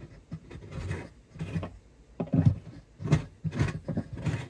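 A hand-turned tapered bridge pin reamer is scraping wood inside an acoustic guitar's bridge pin holes in a string of short strokes. The holes are being opened up so that bridge pins that sat too high will seat down properly.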